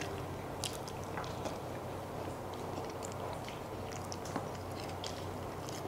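Eating sounds of people chewing mutton biryani eaten by hand: mouth chewing with many small, scattered wet clicks.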